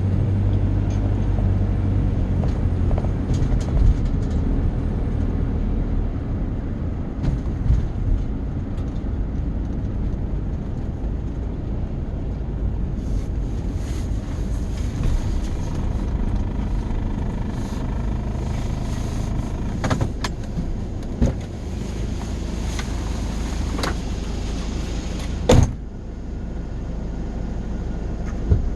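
A vehicle engine running steadily, with a low hum throughout and a few sharp knocks and clicks.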